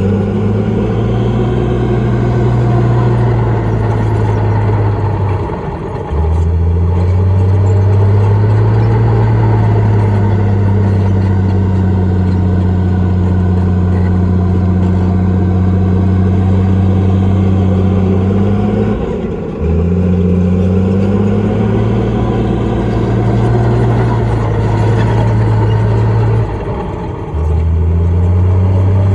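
Heavy diesel engine of a bulldozer working under load, running at steady high revs with a deep drone, dipping briefly three times as the load eases and then picking up again.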